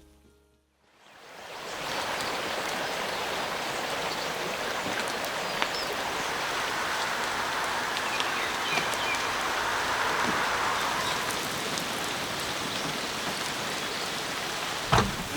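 Steady rain falling, fading in about a second in and then holding even, with a few scattered drop ticks and a couple of knocks near the end.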